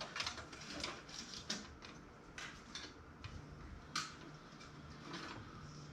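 Irregular small plastic clicks and ticks as a zip tie is fastened around cables, with one sharper click about four seconds in.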